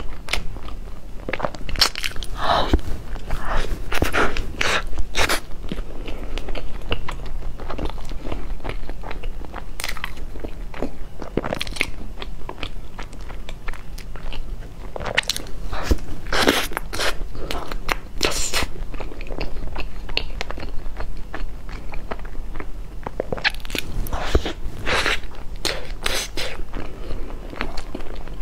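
Close-miked eating of a soft cream-filled bread bun: biting and chewing with irregular wet mouth clicks and smacks.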